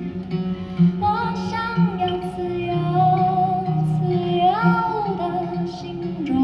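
A woman singing a long wordless melody, with held notes and sliding rises, over a plucked acoustic guitar accompaniment.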